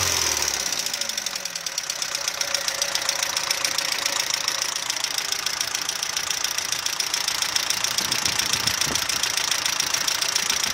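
Audi 80 B3 engine running with a fast, steady metallic knock, its speed settling down over the first second or two. The knock comes from low oil pressure from a failing oil pump; teardown found scored bearing shells.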